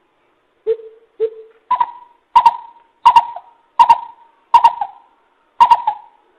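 Greater coucal calling: a series of deep, hollow hoots about one every half second to second, the first two lower, then stepping up in pitch into louder doubled notes that carry on.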